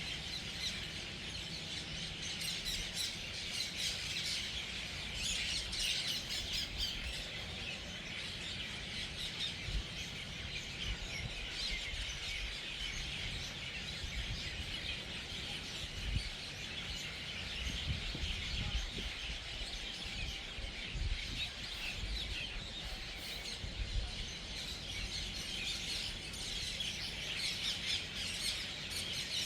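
A large flock of birds gathering at an evening roost, a dense, unbroken chorus of many overlapping chirps and calls. Low rumbles come and go beneath it.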